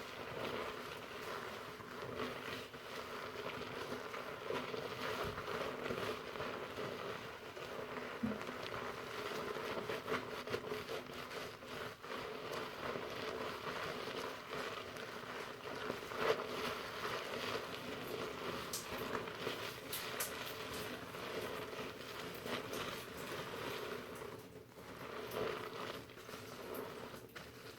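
Fingers working foamy shampoo lather through hair close to the microphone: a continuous crackly rustling of bubbles and wet hair.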